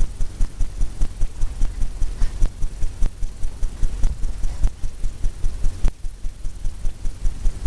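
Paintbrush tapping paint onto a stretched canvas in a quick, even rhythm of about four to five low thumps a second, the canvas drumming under each tap.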